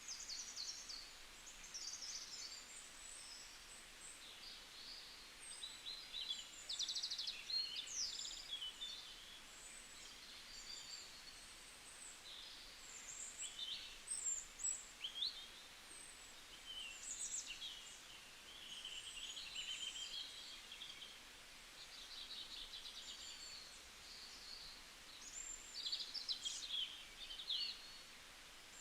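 Several small songbirds chirping and singing in short, high trills and chirps, some overlapping, over a faint steady hiss.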